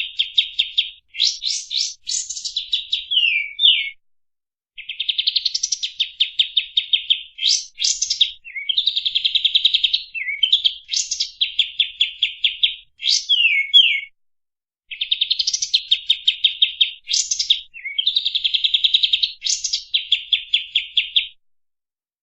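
Kapas tembak songbird singing long, fast bursts of rapid repeated notes in a clear, high voice, with quick sweeping strokes between the trills. The song breaks briefly twice and stops near the end.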